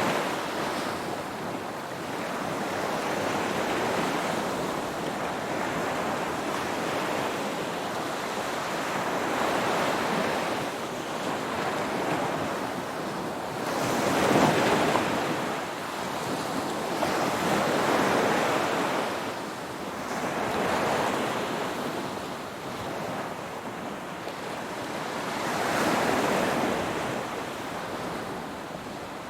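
Ocean waves washing onto the shore, surging and receding every few seconds, with one surge about halfway through the loudest.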